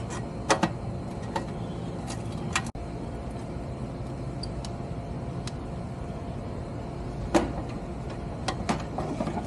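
Scattered sharp metallic clicks and taps of hand work in the electrical compartment of an air-conditioning condensing unit, heard over a steady background hum.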